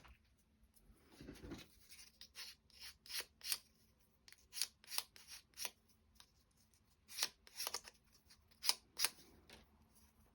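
Small, irregular clicks and light taps of thin wooden clock-kit pieces being handled and set together, with a soft thump about a second and a half in.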